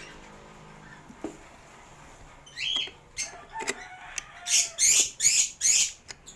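Caged parrots calling: a short rising chirp about two and a half seconds in, then a run of four loud, scratchy calls over the last two seconds, with a few sharp knocks among them.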